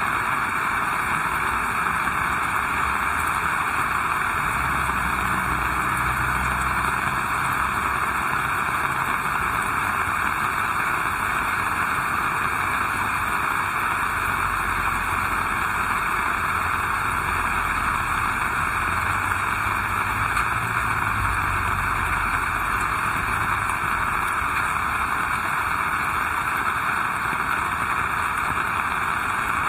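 Heavy rain falling steadily as a dense, even hiss. A low rumble swells twice under it, about four seconds in and again around the middle.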